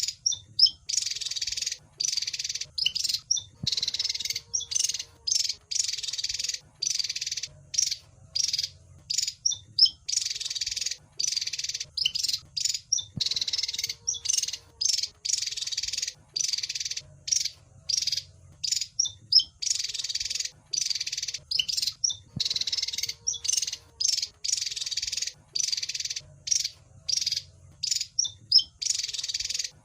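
Wergan jawa (Javan fulvetta) song: rapid series of high chirps and short trills in dense clusters with brief gaps. The same sequence repeats about every ten seconds, as a looped recording does.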